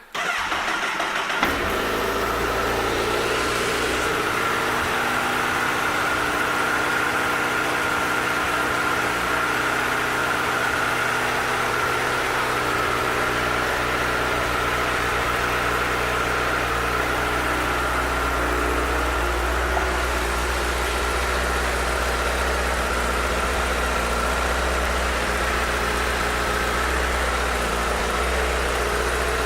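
2013 Honda CBR1000RR's inline-four engine starting, catching about a second and a half in, then idling steadily.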